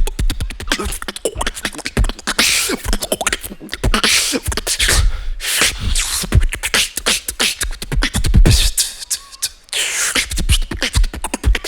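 Solo mouth beatboxing: a fast run of clicks over deep bass kicks, broken by loud hissing snare-like bursts.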